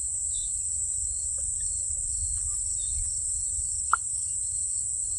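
A steady, high-pitched insect chorus drones without a break, with one short sharp click about four seconds in.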